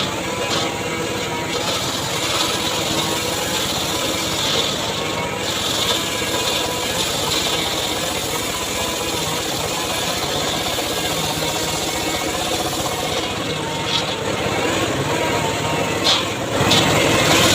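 The engine of a homemade circular saw rig running steadily, with a few short knocks and a rise in level near the end.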